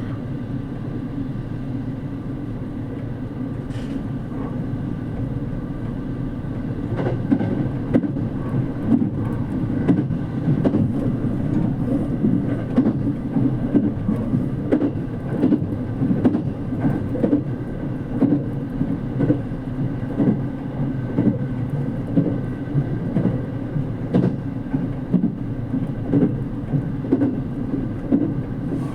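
Inside the cabin of a JR Kyushu 787 series electric train at speed: a steady low rumble, with wheels clicking over rail joints in a regular rhythm from about seven seconds in.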